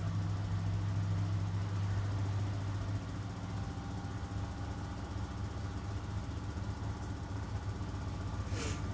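Miele W1 front-loading washing machine running with a steady low hum from its motor and drum, a little louder in the first two seconds. A brief sharp noise comes near the end.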